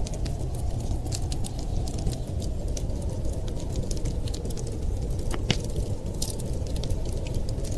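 Wood fire crackling: frequent, irregular sharp pops and snaps over a steady low rumble.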